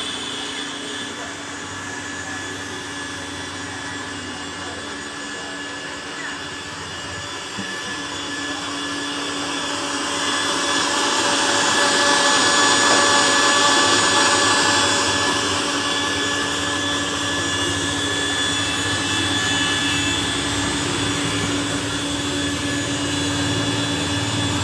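Electric blender motor running steadily at a juice stall, growing louder about ten seconds in and easing off a little after fifteen seconds.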